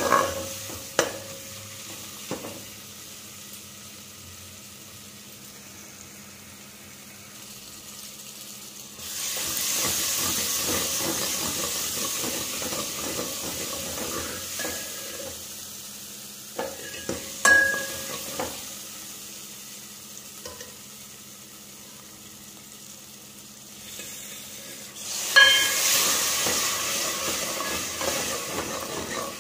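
Masala frying in oil in a steel pot and being stirred and scraped with a steel ladle, with a few ringing clinks of the ladle against the pot. The sizzle jumps louder about nine seconds in and again near the end, where the masala has turned to a thin liquid.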